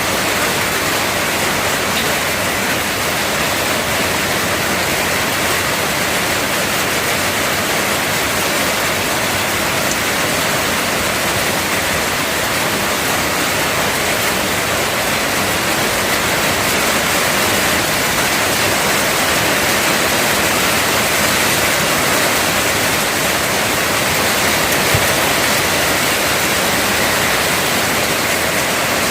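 Heavy rain pouring down, a loud steady hiss with no letup.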